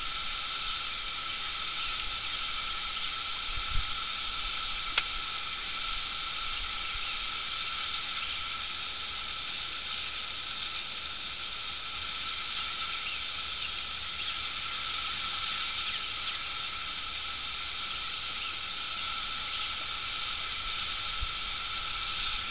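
Steady hiss of rain falling on the lake, with two light knocks about four and five seconds in.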